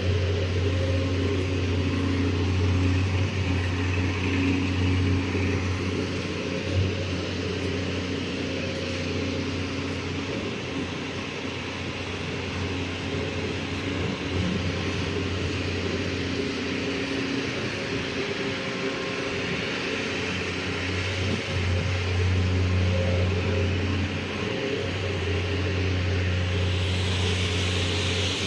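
Diesel engine of a concrete mixer pump running steadily, its low, even note dropping back somewhat through the middle and coming up again in the last third.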